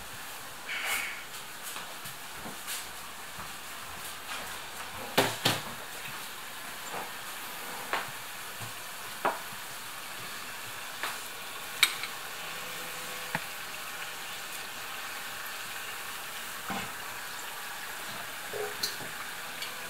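Curd-dough rings deep-frying in a pan of hot oil, giving a steady sizzle. Scattered sharp clicks and knocks sound over it, the loudest a pair about five seconds in.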